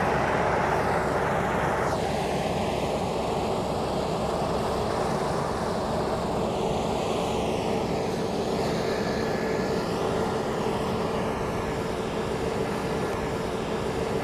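New Holland CR9.90 combine harvester running steadily while harvesting wheat, a constant engine drone with a broad rushing noise over it.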